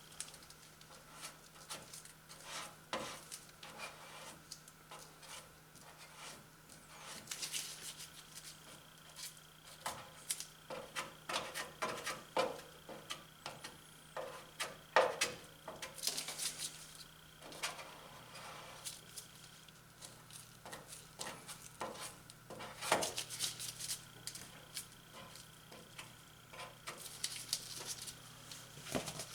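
Body filler being scooped and spread with a plastic spreader: irregular scrapes, taps and clicks of the spreader on the mixing board and the car's panel, over a faint steady hum.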